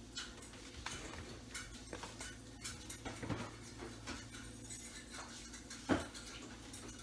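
Light clatter of kitchen items being handled and set down: scattered clicks and knocks of containers and packages, with one louder knock about six seconds in.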